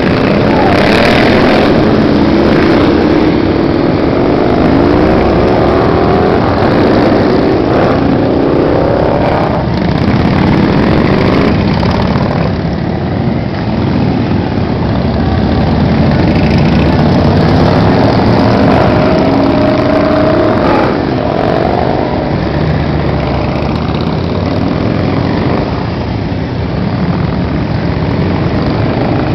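A stream of motorcycles riding past, many engines running together, their pitches rising and falling as riders rev and go by.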